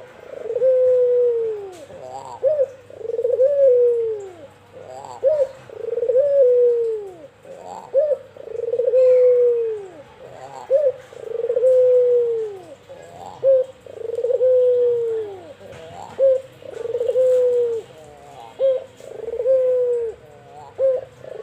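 White albino ringneck dove (Barbary dove) cooing over and over: a short note followed by a long falling coo, repeated about every second and a half.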